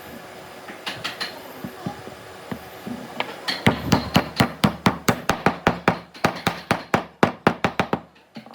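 Hammer strikes on wood: a few scattered knocks, then about four seconds of rapid, even blows, about five a second, which stop abruptly near the end.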